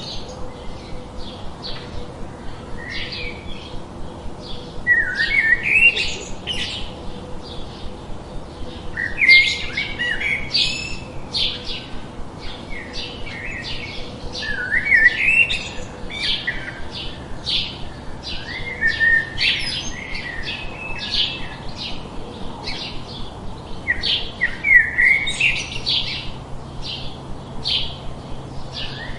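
Small songbirds chirping continuously: quick high chirps about three a second, broken every few seconds by a louder rising twittering phrase.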